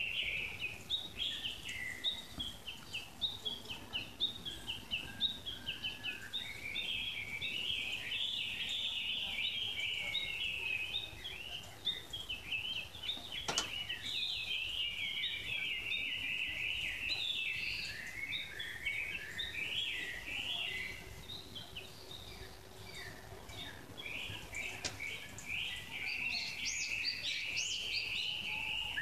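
Several songbirds chirping and singing at once, a dense, unbroken run of quick high notes, with a single sharp click about halfway through.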